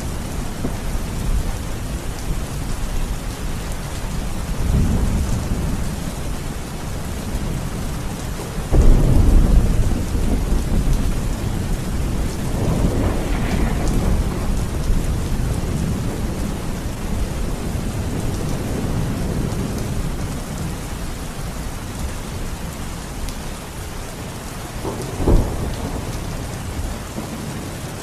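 Steady rain falling, with thunder: a loud low rumble about a third of the way in, weaker rolling rumbles before and after it, and a shorter, sharper thunderclap near the end.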